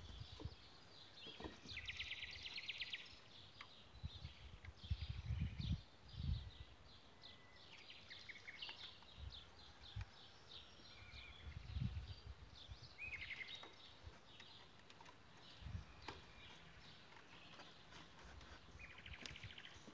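Small birds singing in the background: many short chirps and a few fast trills, the busiest about 2 seconds in and near the end. Dull low bumps come and go, the loudest near the start and about five to six seconds in.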